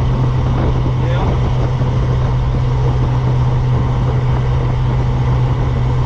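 Car engine and road noise at a steady cruise: a constant low drone that holds one pitch, with no revving.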